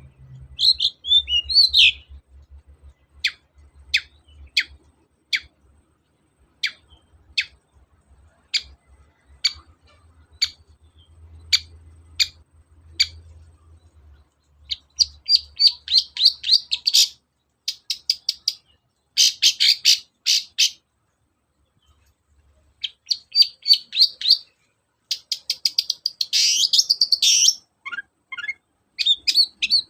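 Long-tailed shrike (cendet) singing. It starts with a run of separate sharp high notes, about one or two a second. About halfway through it breaks into loud, fast, scratchy chattering phrases in short bursts.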